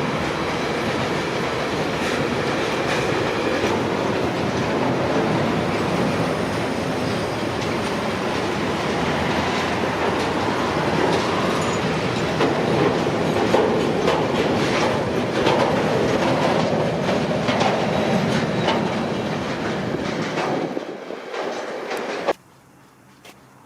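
Freight train rolling past, its wheels clicking over rail joints with a steady rumble. The sound cuts off suddenly near the end.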